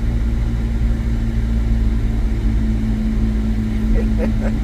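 Car cabin noise while driving: a steady low rumble of engine and road with a constant hum. A few brief chirping sounds come near the end.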